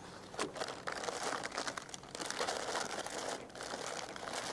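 Crinkling plastic: a bag of soft-plastic stick worms being handled and rummaged through in irregular crackly bursts while a wacky worm is picked out to rig.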